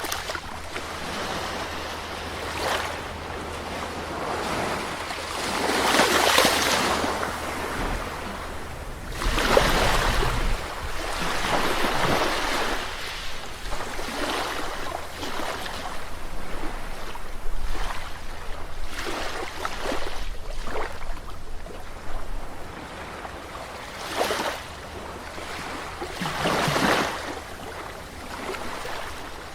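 Sea waves breaking and washing onto a shore, several swells of surf rising and falling every few seconds, the strongest about six, ten and twenty-seven seconds in, with some wind rumble on the microphone.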